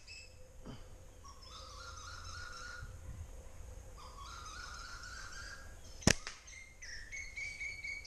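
Birds calling: two runs of repeated whistled notes climbing in pitch, the call of the Asian koel, over higher chirping. About six seconds in comes one sharp snap: a rubber slingshot being fired.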